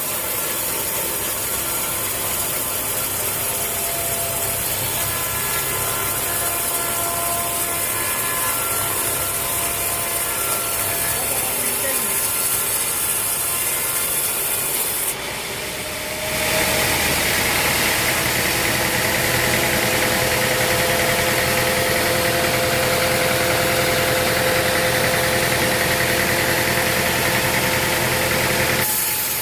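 Sawmill machinery running steadily with a mechanical drone and several steady tones. About halfway through, the sound dips briefly, then comes back louder with a steady high whine that stops just before the end.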